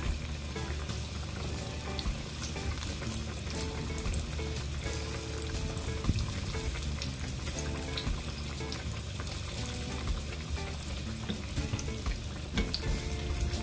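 Breaded zucchini and eggplant slices frying in a pan of hot oil: a steady sizzle with many small crackles.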